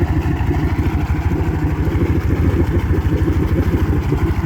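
2007 Yamaha VMAX 200 HPDI oil-injected two-stroke V6 outboard idling with an even, steady throb, running cleanly with no fault codes stored.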